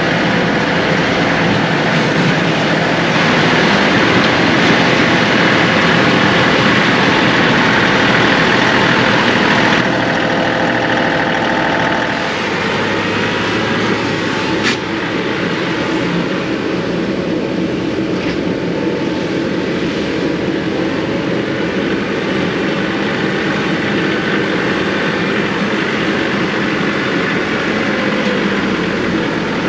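John Deere 2038R compact tractor's diesel engine running steadily while working snow. The sound shifts about ten seconds in and again near twelve seconds, and there is a single sharp click a little after that.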